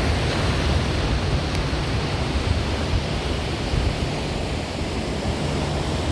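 Steady wash of ocean surf, mixed with wind noise on the microphone.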